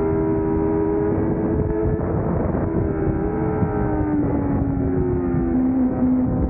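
600cc racing motorcycle engine running hard at high revs, its pitch stepping down a few times over the stretch.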